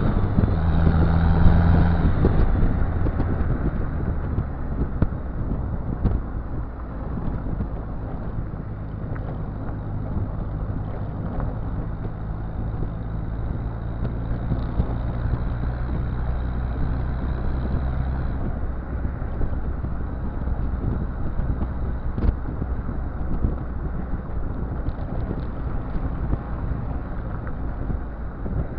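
Exhaust note of a Citroën Visa's XUD7TE turbo-diesel four-cylinder engine, with a 1.2 bar boost conversion. It is louder for the first couple of seconds, then drops back and runs at a steady low note.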